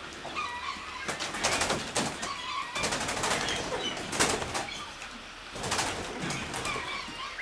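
Short bird calls from the aviary birds, with three longer bursts of rustling noise in between, which are the loudest sounds.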